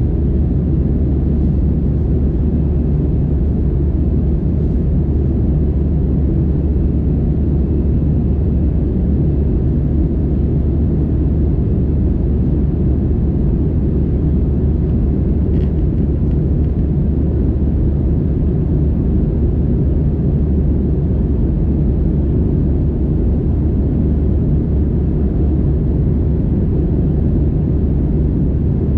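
Steady low drone inside the cabin of an Airbus A320-216, its CFM56 engines and the surrounding machinery heard as an unbroken rumble from a window seat.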